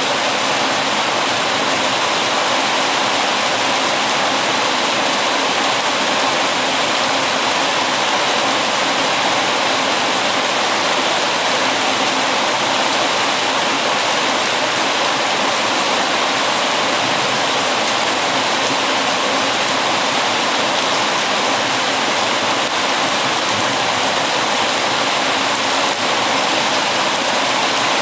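Heavy rain falling steadily, an even unbroken hiss with no separate drops or crackles standing out.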